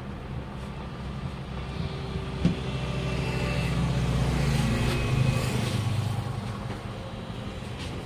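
A motor vehicle's engine passing, rising in level and fading again over about four seconds, over a steady low engine hum, with one sharp click as it begins to swell.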